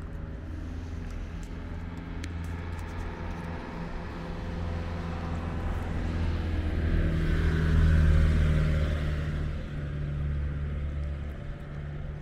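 A motor vehicle's engine running close by with a steady low hum, swelling to its loudest about eight seconds in and then easing off.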